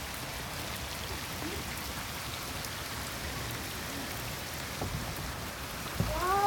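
Steady heavy rain falling on a swimming pool and the wet surfaces around it. Near the end, a cat meows once.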